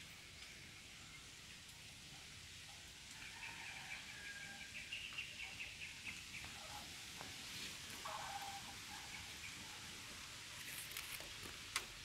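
Faint outdoor ambience with birds calling: a run of quick high chirps from about three to seven seconds in, a lower call around eight seconds, and a few sharp clicks near the end.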